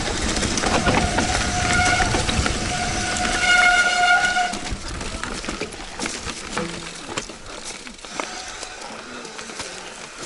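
Bicycle disc brakes squealing in one steady high tone for about four seconds over loud rushing and rattling from the ride, then stopping; after that, quieter rattling and clicks as the bike rolls over rough ground.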